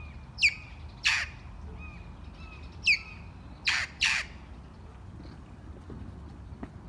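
Feral parrots squawking: five loud, harsh screeches over the first four seconds or so, some sliding down in pitch, with fainter calls in between, then a quieter stretch.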